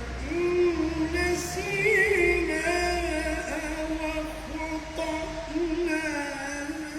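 A man's voice chanting a Quranic recitation (tarteel) unaccompanied. The notes are long and held, with wavering melodic ornaments, and there are short breaks between phrases.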